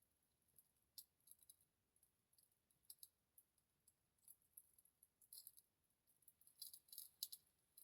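Faint, irregular crackling of a small ritual fire: scattered sharp clicks, a little more frequent near the end.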